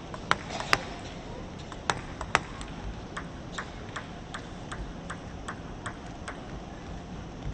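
Plastic table tennis ball clicking: a few sharp knocks in the first two and a half seconds, then a run of light, evenly spaced ticks, about two and a half a second, that stops a little after six seconds.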